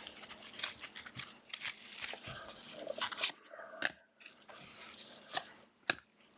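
Trading cards and plastic packaging being handled: an irregular rustling and crinkling broken by several sharp clicks and snaps, the loudest a little over three seconds in.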